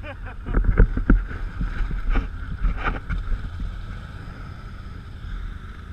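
Steady low rumble of an off-road vehicle on the move, with a burst of knocks and bumps in the first second and two more around two and three seconds in.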